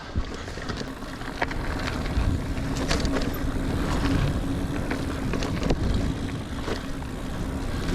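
Niner Air 9 RDO 29er mountain bike ridden on dirt singletrack: a steady rolling rumble of knobby tyres with scattered sharp clicks and knocks from the bike rattling over rocks and roots.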